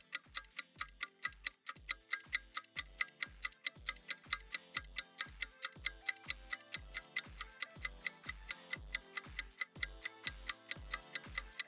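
A quiet, stripped-down electronic backing track: a steady kick drum about twice a second under fast, even hi-hat ticks.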